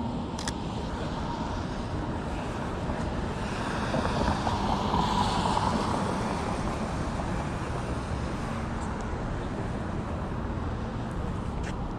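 City street traffic noise, steady, with a vehicle passing and swelling louder about four to six seconds in. A couple of short sharp clicks, one just after the start and one near the end.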